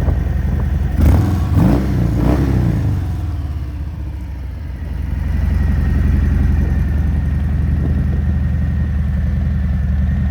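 Harley-Davidson Softail Fat Bob's V-twin engine idling with its uneven beat, blipped three times in quick succession about a second in, then settling back to idle.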